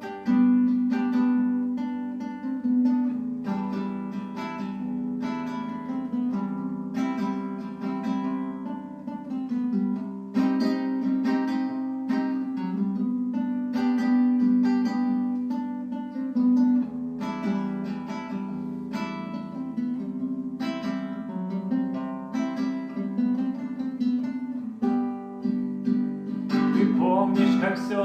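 Acoustic guitar playing the instrumental introduction of a song, chords sounding in a steady rhythm.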